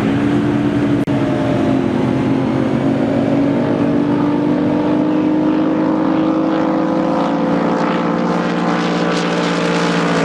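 Drag boat engine running loud and steady, its pitch holding nearly level, with one sharp click about a second in.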